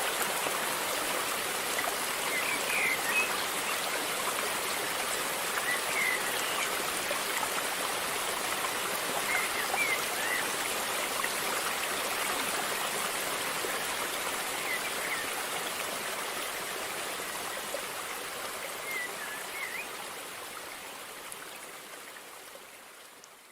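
Flowing river water, a steady rushing, with a few short high chirps now and then. It fades out over the last several seconds.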